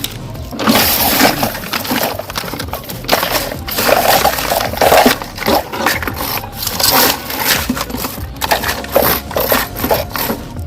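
Small hard objects clattering and crunching: a dense, irregular run of clicks and rattles, loudest around the middle.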